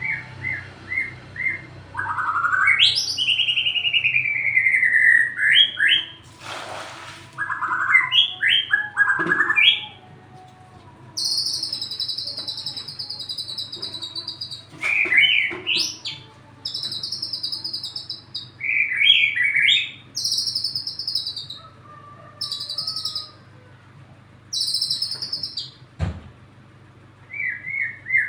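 White-rumped shama (murai batu) singing in full voice: a varied song of loud whistled phrases, sweeping notes and fast high trills, broken by short pauses.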